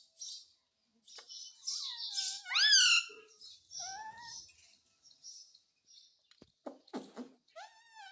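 Indian ringneck parrot calling: a run of short, harsh, high squawks and chatters, with a loud cry that rises then falls about two and a half seconds in, and warbling calls near the end.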